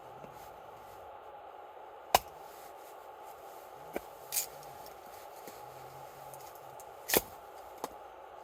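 Several sharp clicks over a steady hiss: two loud ones, about two seconds in and about seven seconds in, and three smaller ones between and after.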